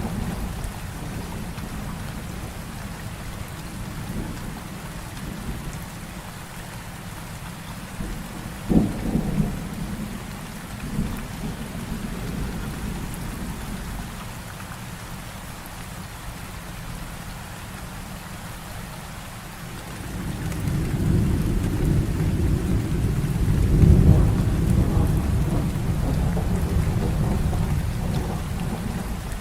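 Heavy rain falling steadily, with a sharp thunder crack about nine seconds in and a long rolling rumble of thunder that builds from about twenty seconds in, peaks, and fades near the end.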